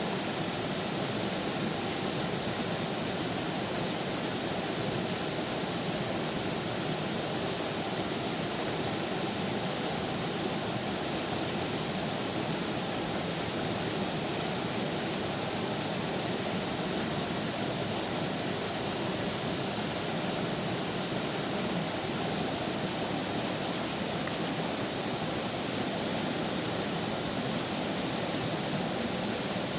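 Flowing river water running steadily: an even, unbroken rush that does not change.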